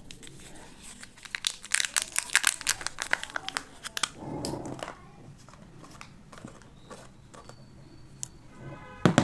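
Crinkly wrapper being torn open and crumpled by hand, a dense run of crackling during the first half, with a short knock near the end.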